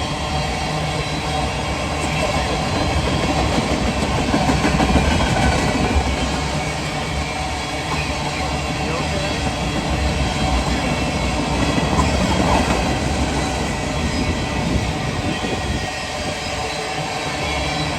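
Freight train cars rolling past at close range: a loud, steady rumble and clatter of steel wheels on the rails, with no horn.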